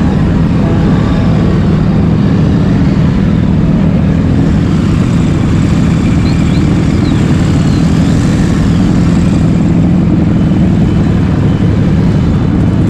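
Motorcycle engine running at a steady, unchanging pitch, loud and continuous.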